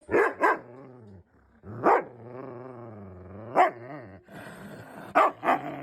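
A pet animal vocalizing: short sharp loud calls, twice near the start, once about two seconds in, once past the middle and twice near the end, with a long low wavering growl running between them.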